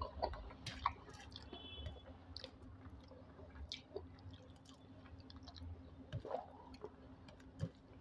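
Close-up eating sounds of rice and egg curry eaten by hand: wet chewing and lip smacks with scattered small clicks, over a faint steady low hum.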